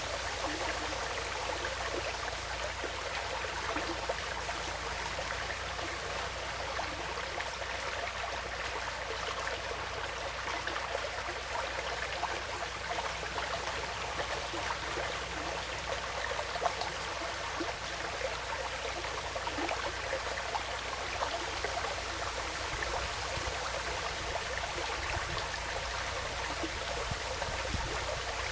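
Woodland stream flowing steadily, a continuous even trickling rush of water.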